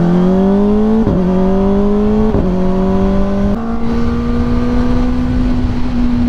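Kawasaki ZX-4RR's inline-four engine accelerating through the gears with quick-shifter upshifts: the note climbs and drops sharply at each shift, three times, then holds a steady pitch at cruising speed.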